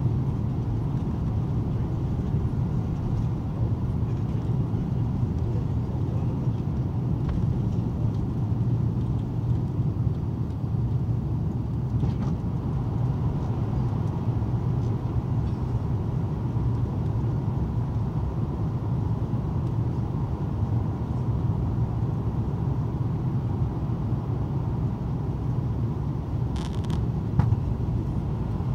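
Emirates Airbus A330 airliner, rumbling steadily at an even level, with a brief click near the end.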